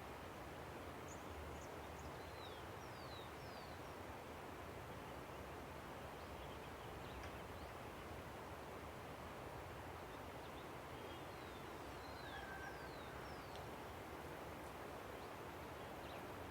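River flowing with a steady rush, and small birds giving faint high chirps, short downward-sliding notes in two clusters, about a second in and again around twelve seconds.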